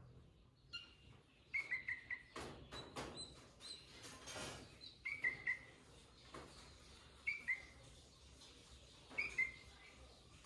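Sooty-headed bulbul (kutilang) calling in four short bursts of quick chirps, a couple of seconds apart. A few knocks and a brief rustle come in the first half.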